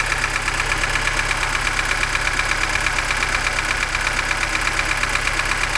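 Lada Niva's four-cylinder Zhiguli engine idling steadily with a rapid, even knocking from the engine. The knock came on after a full rebuild and showed up only once the engine had run a while; it persists with the valves set to 0.15 mm, and its cause is not known.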